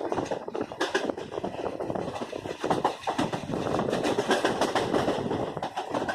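Passenger train running, its wheels clattering over the rails and the carriage rattling in a dense, uneven din.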